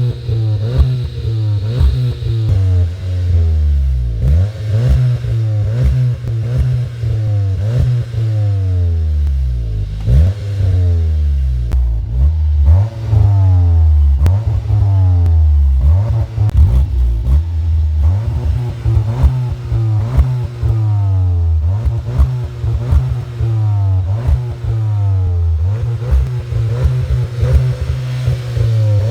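Seat Leon Cupra with an Inoxcar aftermarket exhaust, its engine revved again and again, the note jumping up and then falling away after each rev, with sharp crackles in between.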